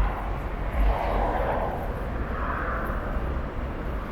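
City street ambience: a steady traffic rumble with vehicles passing, swelling softly twice.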